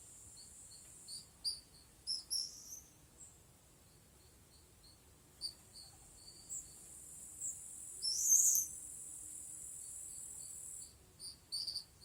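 Steady high-pitched insect trill, typical of crickets or cicadas, that cuts off about eleven seconds in. Short scattered bird chirps sound over it, with a louder burst of chirping about eight seconds in.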